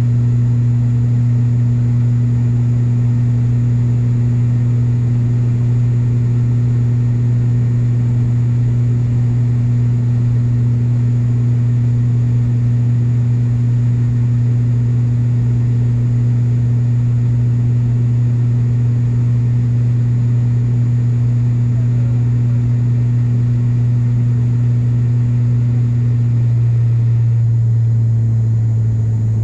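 ATR 42-500 turboprop engines and propellers droning steadily at high power, heard from inside the cabin. Near the end the drone drops slightly in pitch.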